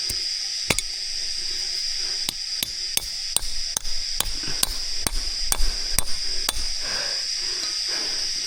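Repeated sharp striking knocks, like hammer or chopping blows: a couple near the start, then a run of about two to three a second that stops about two-thirds of the way in. A steady high-pitched whine carries on underneath.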